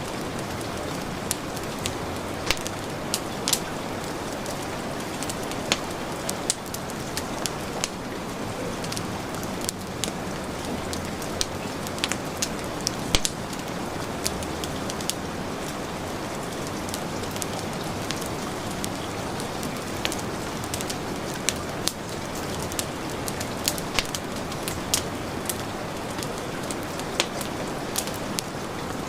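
Heavy rain falling steadily, mixed with a wood fire crackling, its sharp pops coming at irregular moments.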